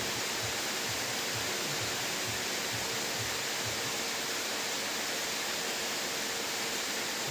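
Steady, unbroken hiss of heavy rain.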